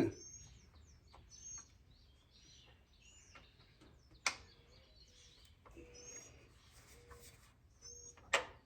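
Small birds chirping repeatedly in short high calls, with three sharp metallic clicks, one at the start, one about four seconds in and one near the end, from hardware and hand tools as a small engine is bolted onto a garden tiller.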